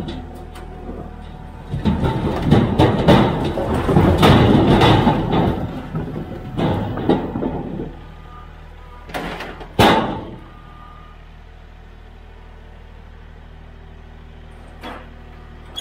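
Diesel tractor engine running under a loud clatter of split firewood tumbling from a tipped tote into a steel hook-lift container, lasting several seconds. Two sharp knocks follow, then the engine runs on steadily.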